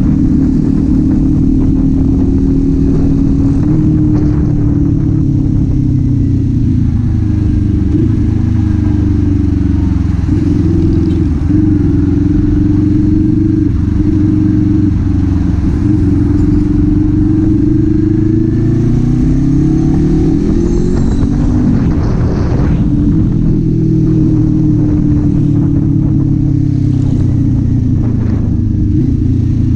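Kawasaki Z400 parallel-twin engine and exhaust under way. The engine holds a steady note for most of the stretch, then climbs in pitch and drops sharply about two-thirds of the way through before settling again.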